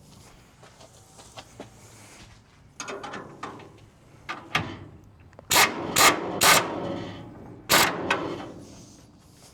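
A few light clicks and knocks, then four loud, sharp bangs with a ringing tail about five and a half to eight seconds in: hands-on work on a car's front-end sheet metal.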